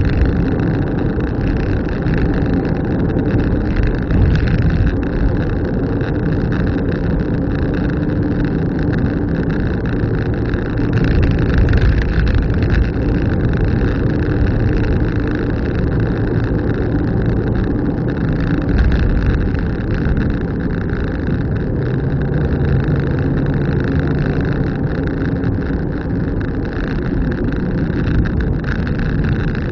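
Car driving along, with steady engine and road noise; about three-quarters of the way through the engine note drops lower.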